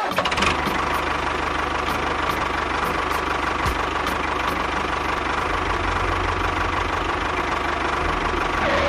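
Tractor engine running steadily with a regular knocking beat, about three knocks a second, that starts abruptly and cuts off near the end.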